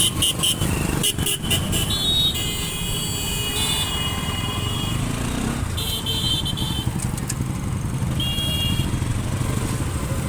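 Motorcycle riding through city traffic: a steady low engine and road rumble, with several vehicle horns honking, one held for a couple of seconds.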